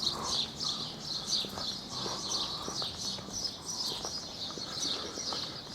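Small birds chirping repeatedly in quick, high-pitched calls over a faint low hum of background traffic.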